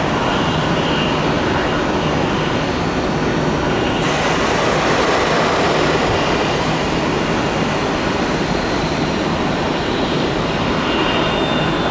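Jet airliner engines, a loud steady rush with a faint high whine, running on without a break and growing a little brighter about four seconds in.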